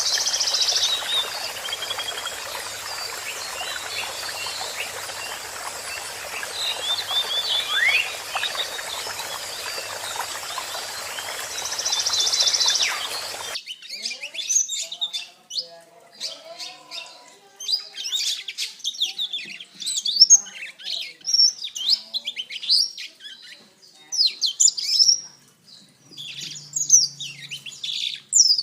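Blackthroat (black-throated canary) singing a fast, varied twittering song of quick high chirps and trills. For the first half the song sits over a steady hiss; about halfway through it changes abruptly to a cleaner stretch of sharper, busier chirping.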